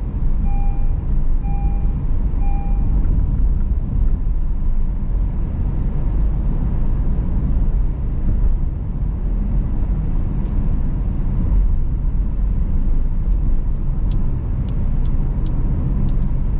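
A car driving over a rough road: a loud, steady low rumble of engine and tyres. A pitched beep repeats about once a second and stops about three seconds in, and a few light clicks come near the end.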